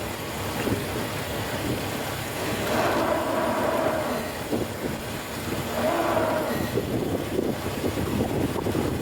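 Boat engine running as the boat comes in to dock, under steady wind noise on the microphone.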